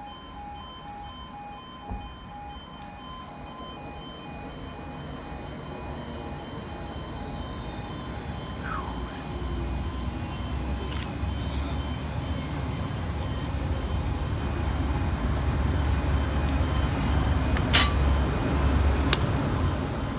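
Greater Anglia Class 755 Stadler FLIRT bi-mode train running on its diesel power packs, growing steadily louder, with a deep rumble building from about halfway and a steady high whine throughout. A repeated beeping sounds in the first few seconds, and there is a sharp click near the end.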